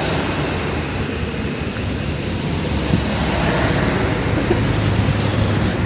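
Heavy truck engine running steadily, with a low hum that grows stronger in the second half.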